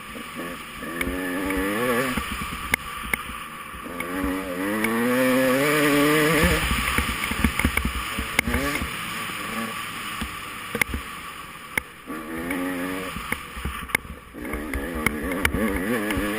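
Off-road dirt bike engine revving up and down over and over as the throttle is worked. It comes with a steady rush of noise and many sharp knocks and clatters from riding over rough ground.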